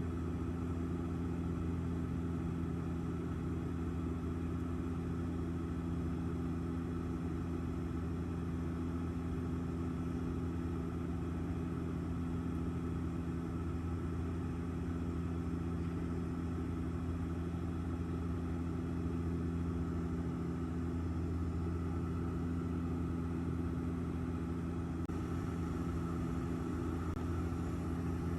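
Airliner cabin noise: the steady drone of the engines and rushing air, with a constant low hum underneath.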